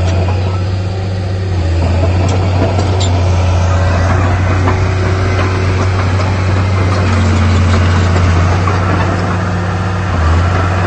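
Heavy diesel engine of earthmoving machinery running steadily under a deep, constant hum, with a few faint clicks over it.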